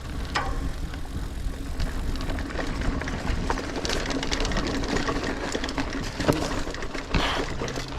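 Niner Air 9 RDO 29er mountain bike rolling along a dirt singletrack: steady tyre noise over the trail with frequent small clicks and rattles from the bike.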